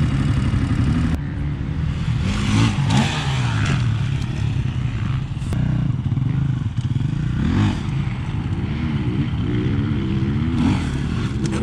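Dirt bike engine running under way, its pitch rising and falling again and again as the throttle is opened and closed, with a rushing noise over it.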